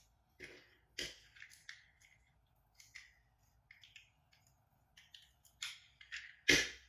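Plastic toys being handled, giving a dozen or so irregular clicks and taps, with one louder knock near the end.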